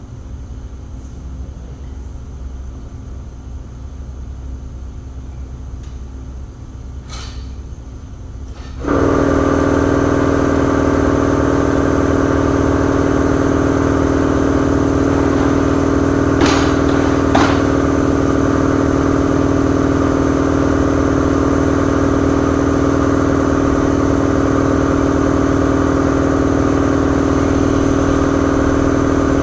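A low rumble, then about nine seconds in a machine starts abruptly and runs loud and steady with an even hum, with two sharp clicks a few seconds later.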